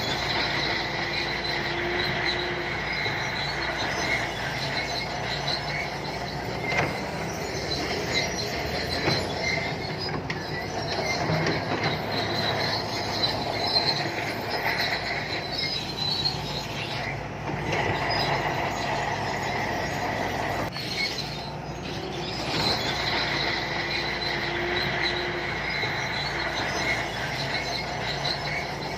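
SANTUI crawler bulldozer working: the engine runs steadily while the steel tracks squeal and clank, the high squeal coming and going in waves.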